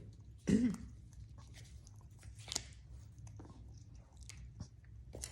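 African grey parrot biting and crunching a piece of walnut with its beak: scattered small cracks and clicks, the sharpest about two and a half seconds in. A brief voice sound comes about half a second in.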